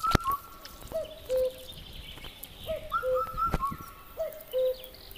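A bird calling over and over in clear whistled notes: a low two-note phrase and a quick run of higher short notes, repeating every second or two. A sharp knock comes right at the start and another about three and a half seconds in.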